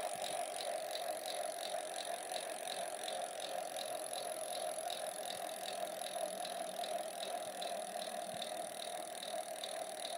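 A steady mechanical hum with a light, regular ticking about three to four times a second, even throughout.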